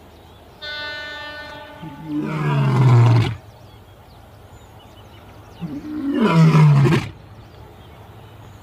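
A steady horn-like tone, then two loud growling roars, each sliding down in pitch and cutting off suddenly.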